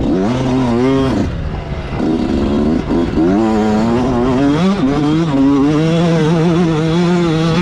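Motocross bike engine heard on board, revving up and dropping back in pitch several times with the throttle, then holding a fairly steady pitch over the last few seconds.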